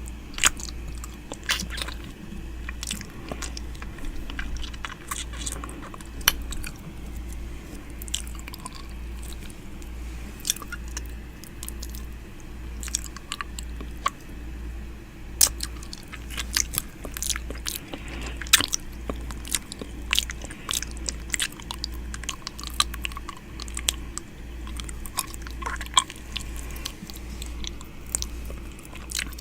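ASMR 'ear eating' mouth sounds close to the microphone: irregular wet clicks, smacks and nibbles, over a steady low hum.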